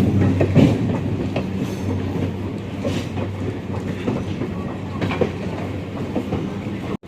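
Train running on the rails at close range, its wheels clattering and clicking over the track with a dense rumble that slowly fades. A low hum dies away soon after the start.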